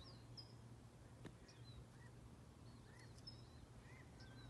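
Near silence: faint, scattered short bird chirps, with one faint click a little over a second in.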